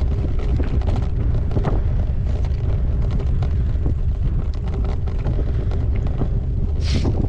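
Wind buffeting a GoPro's microphone, a steady low rumble, with scattered rattles and clicks from a gravel bike riding a rough track, and a brief hiss near the end.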